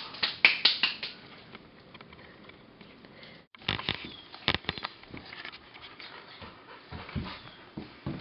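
A dog breathing and moving about, with scattered sharp clicks and knocks. The sound drops out briefly about three and a half seconds in.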